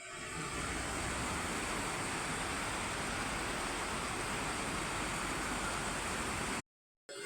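Running water making a steady, even rush, fading in at the start and cutting off abruptly near the end.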